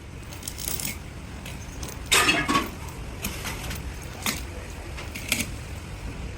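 Metal pieces clinking and clanking in a metalworking shop: several short, sharp strikes, the loudest about two seconds in, over a steady low hum.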